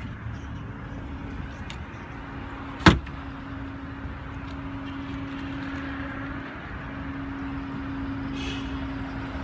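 Steady low hum of the diesel Chrysler 300 limousine idling, with a single sharp click about three seconds in.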